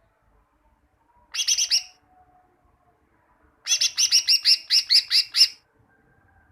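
Cucak ijo (green leafbird) song: a quick burst of a few sharp notes, then after a short pause a longer run of about ten loud repeated falling notes, roughly five a second.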